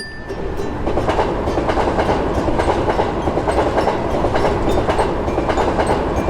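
Train passing at speed: a steady rumble with rapid wheel clatter over the rails, starting suddenly and building within the first second.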